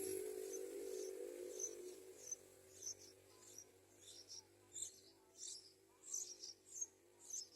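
Short, high bird chirps repeating about every half second, growing more frequent towards the end, while a faint low hum fades out over the first two seconds.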